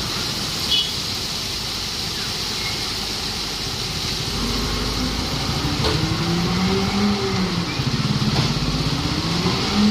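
Ashok Leyland 3525 tipper truck's diesel engine running steadily, then revved up and back down twice in the second half, over a steady hiss.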